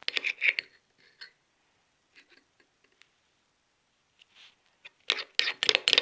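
Sticky, wet clicking and crackling of a shampoo slime being mixed: a short burst at the start, a few scattered ticks, then dense crackling from about five seconds in.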